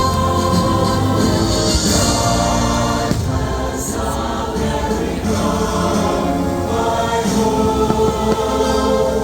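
Choir singing held chords with instrumental backing, the soundtrack of a fireworks show played over loudspeakers.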